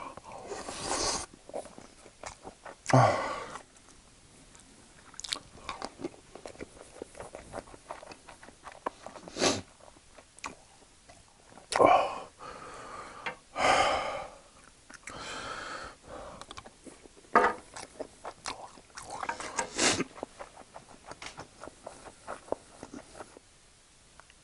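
A person chewing mouthfuls of soft scrambled egg, with many small wet mouth clicks and smacks, broken every few seconds by a louder short rush of noise.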